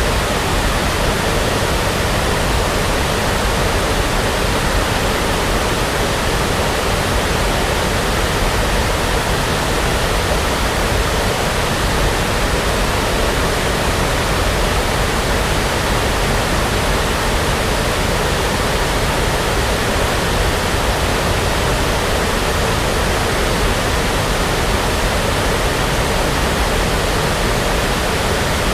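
Continuous brown noise, a steady, even hiss-rumble weighted toward the low end, with no change or events.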